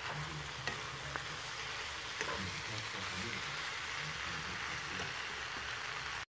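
Cabbage and ground pork sizzling as they stir-fry in a nonstick pan: a steady hiss, with a wooden spatula clicking against the pan a few times. The sound cuts off suddenly near the end.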